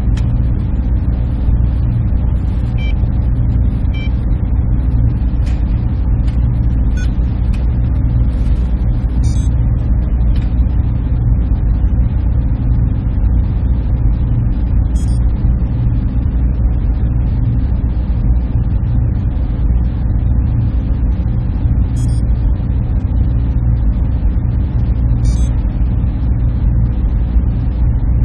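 Server room ambience: a steady, unchanging drone of cooling fans and air handling, strongest in the low hum with a hiss above it. A few faint, brief high ticks sound over it.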